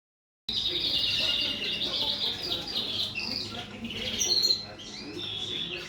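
Canaries in a birdroom singing and chirping, several birds at once, with quick trills and short twittering notes; it starts about half a second in. A steady low hum runs underneath.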